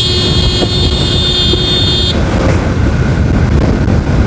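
Wind rushing over the microphone of a moving motorbike, with steady road and engine noise beneath. A shrill, steady high tone sounds for about the first two seconds and cuts off suddenly.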